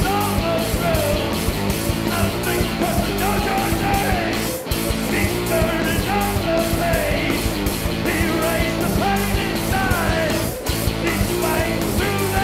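A punk-rock band playing live with loud electric guitars and a melodic line that bends in pitch. The whole band cuts out briefly about four and a half and ten and a half seconds in.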